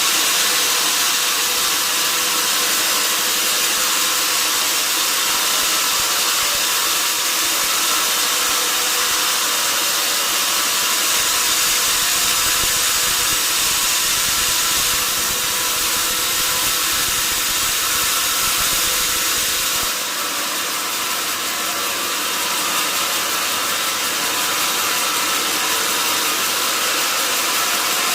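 Sawmill saw running steadily with a constant high-pitched noise. A low rumble under it drops away about two-thirds of the way through.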